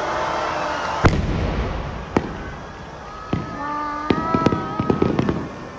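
Aerial fireworks bursting: a loud bang about a second in, two more single bangs, then a quick run of crackling reports near the end.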